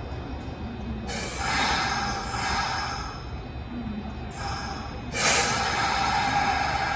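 Kintetsu 1620-series electric train standing at a platform with a steady low rumble, broken by three bursts of air hissing that start and stop abruptly; the last, about five seconds in, is the loudest.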